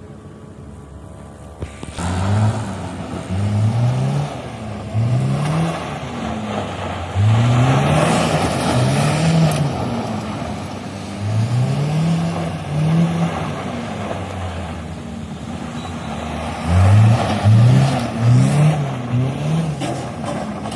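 Maruti K-series petrol engine, idling at first, then blipped through a series of short revs about a second apart, with a quicker run of revs near the end.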